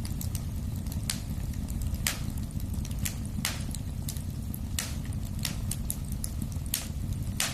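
Fire burning in a fireplace: a steady low rumble with irregular sharp crackles and pops, about one or two a second.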